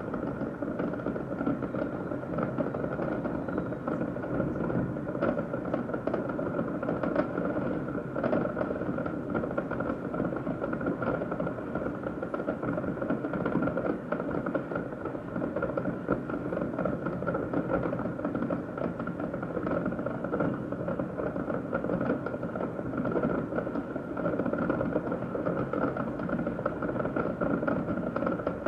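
Distant fireworks popping and crackling in quick, irregular succession over a steady mechanical hum.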